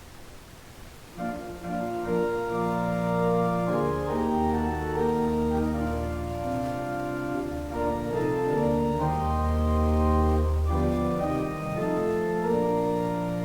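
Organ playing slow, sustained chords over long deep bass notes, starting about a second in.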